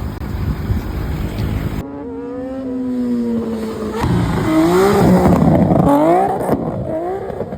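Car engines at a car meet, revving repeatedly, the pitch climbing and dropping several times and loudest around the middle. It opens with a low, rumbling stretch before an abrupt change, the clips cut together.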